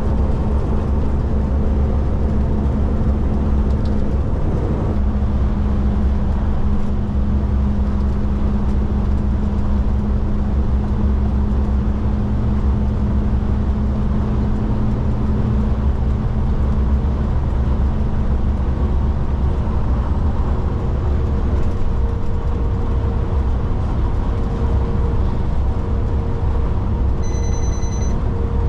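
Kenworth K200 cab-over truck's Cummins diesel engine running steadily at cruising speed, heard inside the cab as a constant low drone with road noise. A short high beep sounds near the end.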